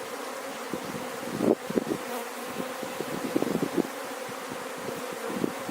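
Honeybees buzzing around an open hive: a steady hum, with louder buzzes coming and going as bees fly close.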